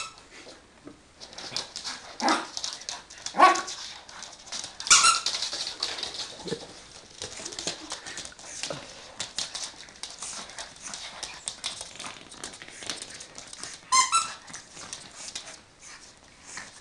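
Squeaky toy ball squeaked in short high-pitched squeals, about five times, as a pug mouths and chews it, with a patter of small clicks between the squeaks.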